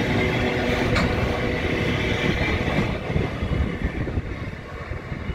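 Freight wagons' steel wheels rolling over the rails with a dense rumble and clatter, with a single click about a second in. The noise gets quieter over the last couple of seconds as the tail of the train passes.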